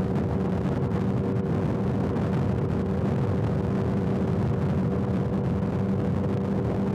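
Motorcycle engine running at a steady cruising speed on a highway, holding an even pitch, under a constant rush of wind and road noise.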